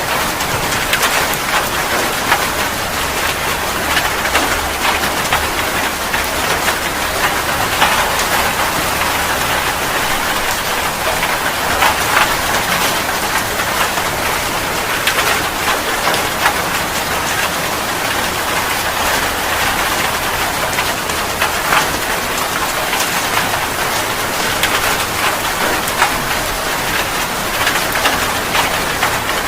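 Steady heavy rain: a dense, even hiss with many individual drops striking a surface.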